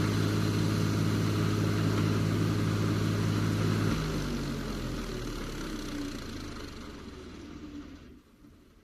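Steyr 540 tractor's diesel engine running at a steady speed, then cutting off about four seconds in, its sound dying away over the next few seconds.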